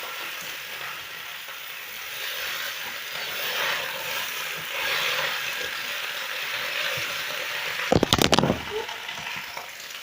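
Leafy vegetables sizzling in a hot pan while being stirred, a steady frying hiss that swells and eases. About eight seconds in comes a brief clatter of sharp knocks.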